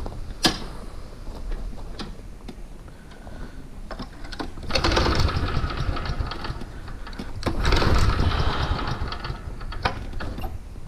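Exmark mower's engine being cranked by its starter in two bursts of about two seconds each, chattering fast without catching, a sign of the mower failing to start. A sharp click comes about half a second in.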